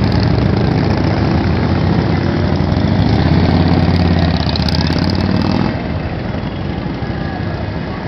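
Motorcycle engines running as parade bikes go by. One bike's low engine note swells from about three seconds in and drops away suddenly just before six seconds in, leaving a quieter rumble of engines.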